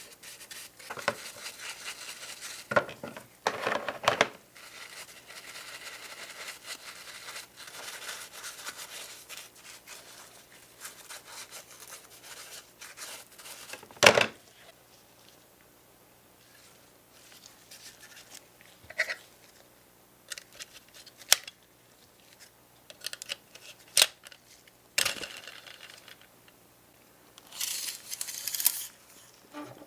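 Hand work on a small model truck at close range: scraping and rubbing with small clicks for the first dozen seconds, then scattered sharp clicks and taps, the loudest about fourteen seconds in, with a short spell of scraping near the end.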